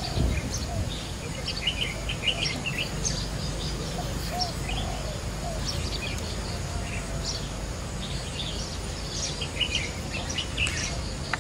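Small birds chirping in short, scattered calls, over a steady low background rumble.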